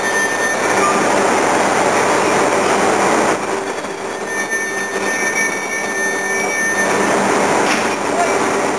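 E3 series 2000 Shinkansen train running along the rails: a loud, steady rumble of wheels, with thin, steady high squealing tones laid over it.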